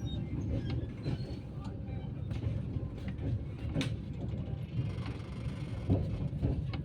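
Lohit Express passenger train rolling into the station: a steady low rumble with scattered clanks, the loudest a little under four seconds in and about six seconds in.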